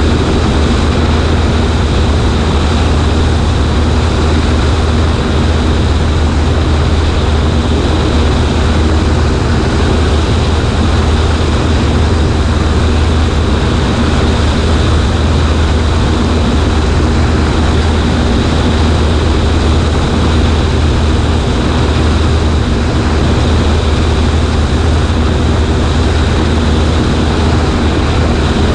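Cessna 140A's engine and propeller running at a constant setting, a strong low drone under a steady rush of air, heard from a camera on the right wing.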